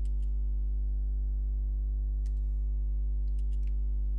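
Steady low electrical hum with a few scattered computer keyboard keystrokes, several close together near the end.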